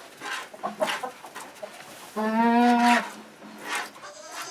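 A Nubian goat bleats once, a loud, steady, wavering call just under a second long, about two seconds in, over soft clucking from chickens.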